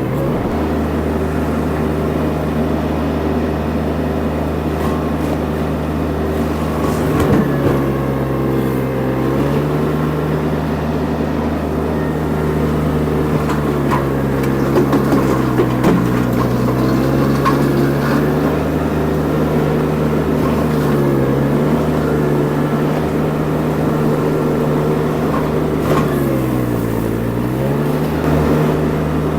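Mini skid steer engine running hard under load while a brush mulcher attachment works. The engine note sags and recovers about four times as the mulcher bites in.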